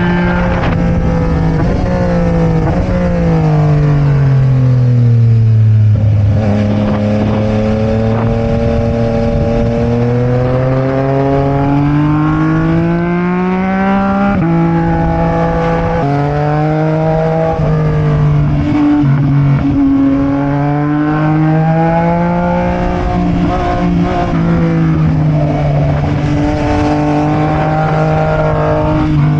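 Sport motorcycle engine heard on board while riding: the revs fall for about six seconds as the bike slows, then climb steadily, with a gear change about fourteen seconds in and more rises and shifts after. Wind noise rushes over the microphone throughout.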